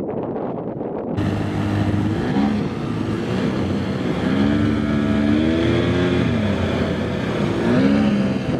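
Small outboard boat motor running under throttle, its pitch rising and falling as it is revved. It makes a lot of racket but won't open up, which the owner blames on the motor slipping or starving for water with its leg set too high.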